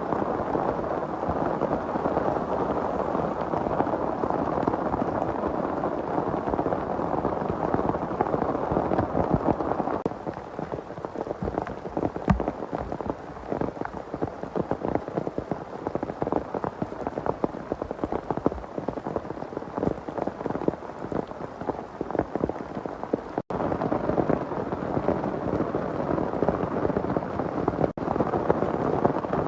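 Heavy rain falling as a dense steady hiss. About ten seconds in it thins to separate, sharp drops striking close by, then turns dense again about two-thirds of the way through.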